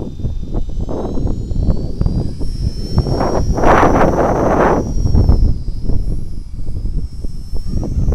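Electric motor and rotor whine of a Blade 200 S radio-controlled helicopter in flight. The pitch rises towards the middle and eases back as the throttle changes, under heavy wind buffeting on the microphone.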